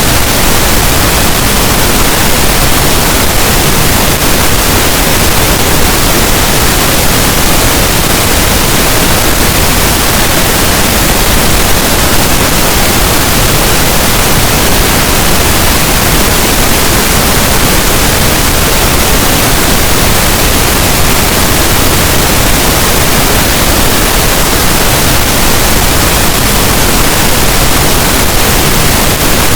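Continuous pink noise: a steady, even hiss with no change.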